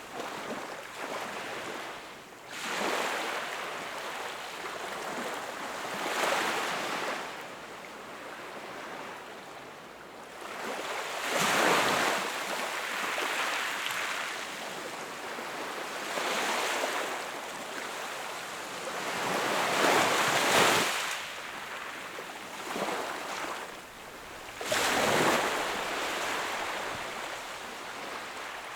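Sea waves breaking on the shore, a louder surge of surf every three to five seconds over a continuous wash of water. The strongest breaks come about twelve and twenty seconds in.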